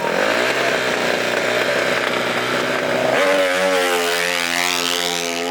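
A small off-road racing engine running hard with a raspy, chainsaw-like buzz, then from about three seconds in holding one steady pitch.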